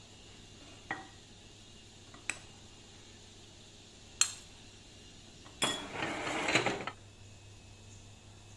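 Dishes and utensils clinking: three separate sharp clinks, the third ringing briefly, then about a second of clattering around six seconds in.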